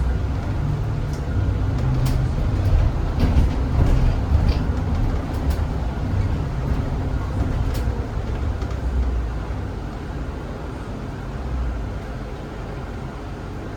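Zhongtong hybrid range-extender city bus running, heard from inside the cabin: a steady low rumble with a few sharp rattles in the first half. It grows quieter over the last few seconds.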